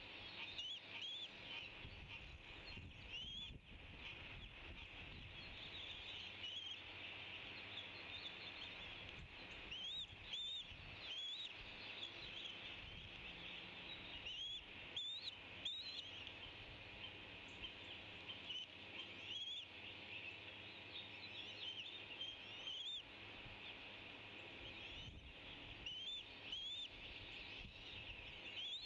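A flock of small birds chirping and chattering together, with many short, rising chirps over a continuous busy chatter.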